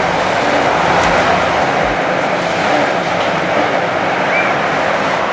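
Forestry harvester running steadily, its diesel engine and hydraulics giving a dense, even noise with a few low thuds.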